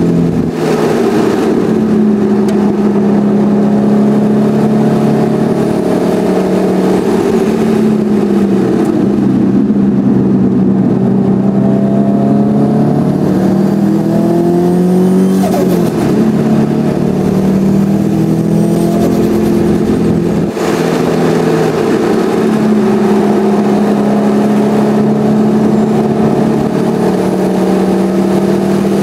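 Subaru STI's turbocharged EJ25 flat-four engine heard from inside the cabin while driven hard on track, its pitch climbing and dropping again and again, with a few short breaks in the note, over steady road and wind noise.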